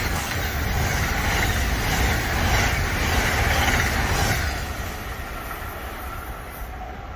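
Train going by: a steady rush of wheel and rail noise that fades away over the last few seconds as it recedes.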